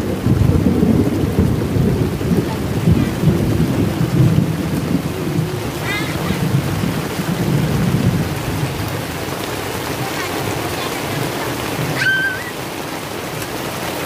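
Heavy rain with a low rumble that dies down after about nine seconds. Two short high chirps cut through, the second near the end.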